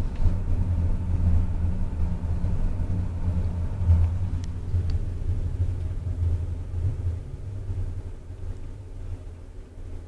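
Low, steady rumble of a train running, heard from on board, fading over the last few seconds as the train slows.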